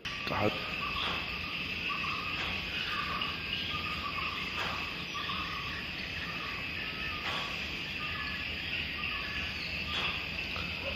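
Steady high-pitched chorus of insects such as crickets, with a run of short repeated calls, about two a second, over the first few seconds.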